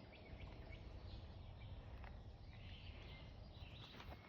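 Faint outdoor background noise with a low rumble and birds chirping now and then.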